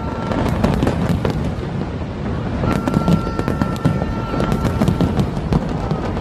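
Fireworks going off, with many bangs and crackles over a continuous low rumble. A steady high whistle is heard from about three seconds in to about five seconds.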